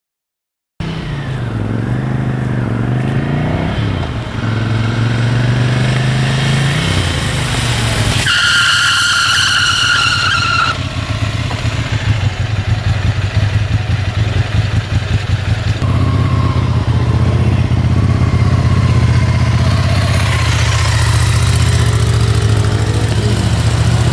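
Motorcycle engine running during slow-speed manoeuvring, its revs rising and falling and then holding steady, with a high squeal lasting about two seconds near the middle.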